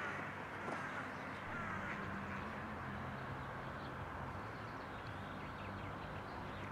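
Steady distant rumble and low hum of an approaching electric-hauled container freight train, with a few short bird calls in the first two seconds.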